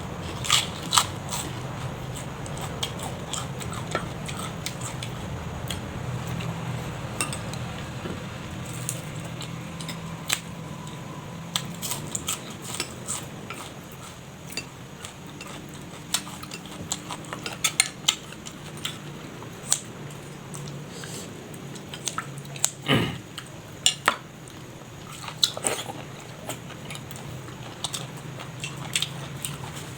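Close-up eating sounds: chewing and biting, with frequent small clicks of a spoon or utensils against dishes, over a low steady hum.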